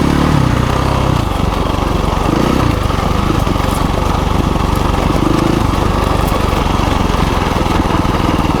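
KTM 350 EXC-F dirt bike's single-cylinder four-stroke engine running as the bike is ridden, its note rising and falling a few times with the throttle.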